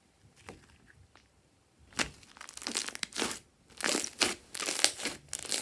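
Glossy slime squished and stretched by hand, making sticky clicks and crackling pops: sparse at first, then in quick clusters from about two seconds in.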